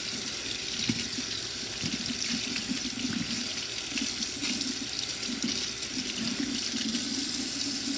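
Water running from a tap into a sink and splashing over small metal knife parts as they are rinsed clean of sanding residue.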